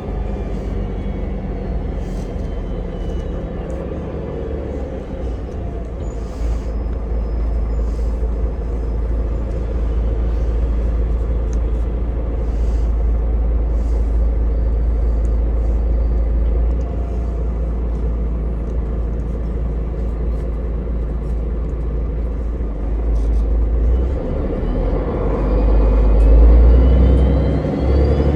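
Ride on a city bus: steady engine and road rumble with light rattles, then a rising whine and louder rumble near the end as it speeds up.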